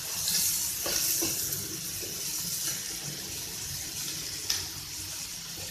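Chicken pieces and capsicum sizzling in butter in a pan over high heat while being stirred with a spatula, with a few light knocks of the spatula against the pan, about a second in and again near the end.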